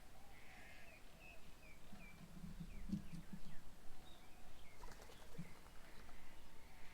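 Faint birds calling: a quick run of short chirps about a second in, scattered higher notes, and a few low pulsed notes around the middle.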